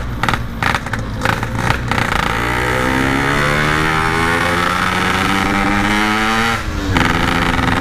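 Yamaha RX-King's single-cylinder two-stroke engine accelerating on the road, heard from the rider's position. It runs choppy for the first couple of seconds, then the revs climb steadily for about four seconds before falling sharply near the end. The engine is being tested under acceleration after an old spark plug was refitted, since the standard NGK plug could not cope with the ignition.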